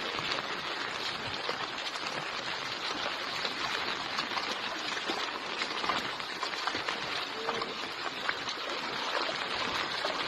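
Fast-flowing floodwater rushing steadily, a constant watery roar with no pauses.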